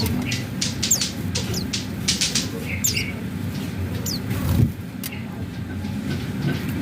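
White-eyes (pleci) in an aviary giving short, high chirps and quick twittering calls over a steady low rumble, with a brief louder rush of sound about four and a half seconds in.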